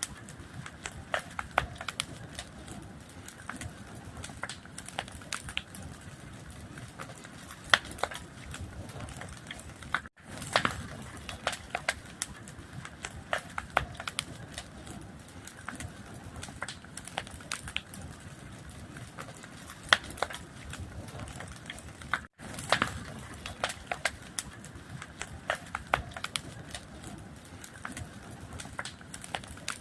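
Fire crackling: frequent sharp pops and snaps over a steady hiss, with the sound cutting out very briefly twice, about ten and twenty-two seconds in.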